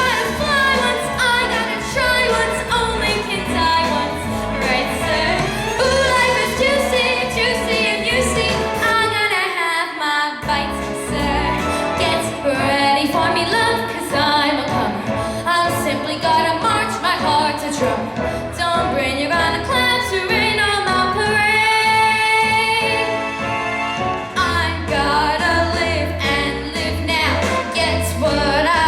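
Solo female voice singing a show tune over musical accompaniment with a steady bass line; the bass drops out briefly a third of the way in.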